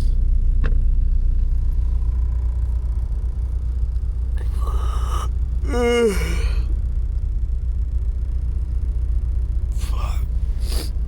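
A man's breathy exhales and a short groan falling in pitch about six seconds in, with more sighs near the end, over a steady low rumble.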